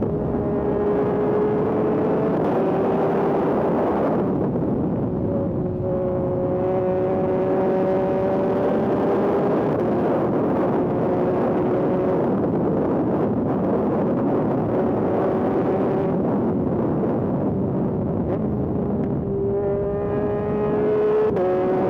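Yamaha MT-09 SP's three-cylinder engine through an aftermarket Dominator exhaust, heard on the move under road riding. The engine note holds fairly steady with slow drifts and a few sudden steps in pitch, over a steady rush of wind.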